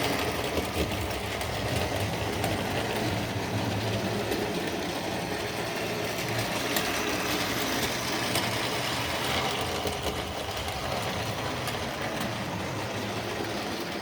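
Tri-ang model train running steadily on its track: a continuous motor whir with faint clicks from the wheels over the rails.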